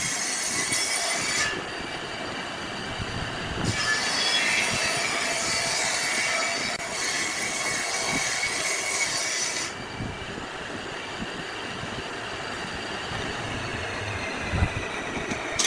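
Steady high-pitched mechanical squealing and grinding noise, its hissy top dropping out for about two seconds near the start and fading back in the second half.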